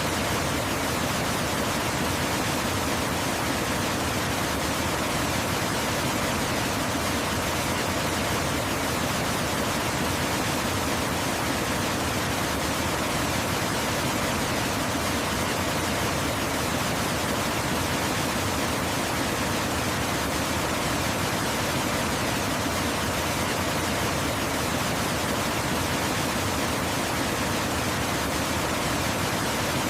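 Waterfall: a steady, even rush of falling water with no change or separate splashes.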